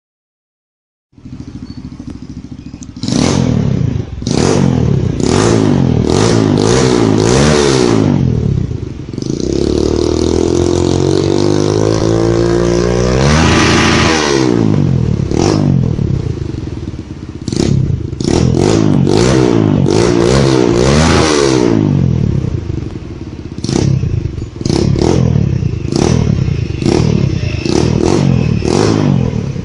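Kawasaki KLX150's single-cylinder four-stroke engine, breathing through an aftermarket full-system exhaust, idling and revved in repeated quick throttle blips. Midway there is one longer climb to high revs before it drops back. The sound starts about a second in.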